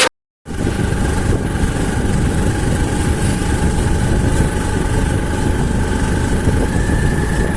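Auto-rickshaw engine running steadily: a low rumble with a steady whine over it, starting suddenly about half a second in.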